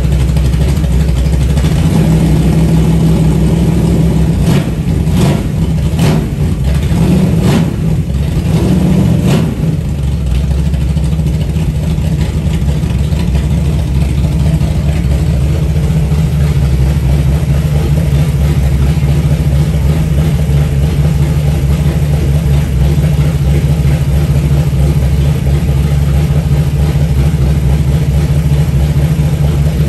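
360 stroker V8 running loud on its first runs after the build, with a few short blips of the throttle in the first ten seconds before it settles into a steady idle.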